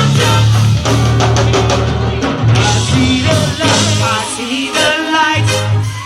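Live go-go band playing, with a drum kit and a steady bass line, and a singer's voice over the music partway through.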